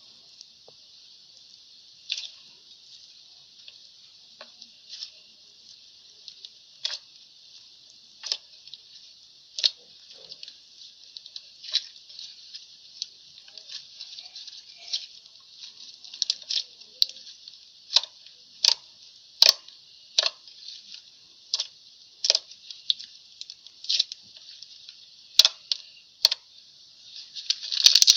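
Slime being poked: short wet clicks and pops every second or two, coming faster and louder in the second half, over a steady hiss.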